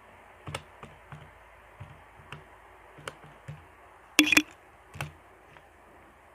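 Irregular key presses, about eight separate clicks spread through the stretch, with one louder tap about four seconds in, as the figures of a calculation are keyed in.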